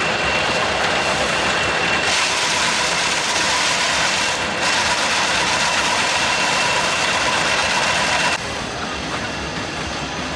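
An engine running steadily with a high whine; the sound drops and changes abruptly about eight seconds in.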